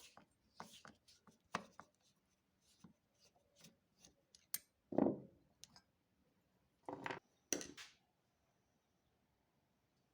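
Handling noises of tools and small parts: scattered sharp clicks and taps with a few longer scraping or rubbing strokes, stopping about eight seconds in.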